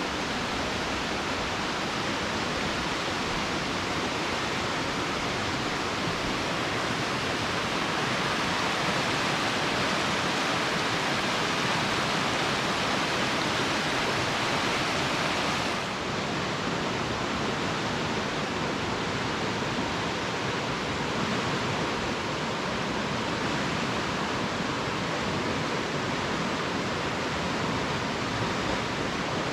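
Steady rush of falling water at Indian Creek Falls, a 25-foot waterfall. About halfway through it changes abruptly to a slightly quieter, duller rush.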